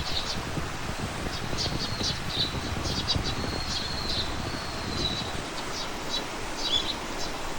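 Small birds chirping in short, high, quickly repeated notes, with a thin drawn-out whistle in the middle, over a steady rush of wind through foliage.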